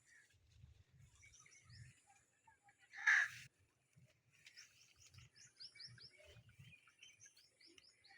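Small birds chirping repeatedly in quick, high, falling notes, with one much louder harsh call about three seconds in and soft low thumps underneath.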